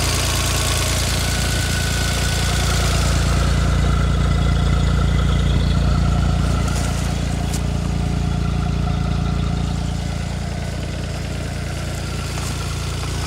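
A 2004 Arctic Cat T660 Turbo Touring snowmobile's turbocharged four-stroke three-cylinder engine idling steadily just after a cold start. It gets a little louder about three seconds in and settles back down near the end.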